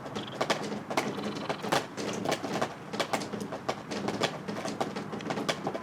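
Fireworks going off in the distance: irregular sharp pops and crackles, several a second, over a faint steady hum.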